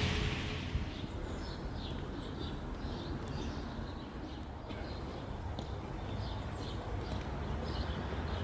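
Small birds chirping in quick, repeated short notes over a low steady background rumble.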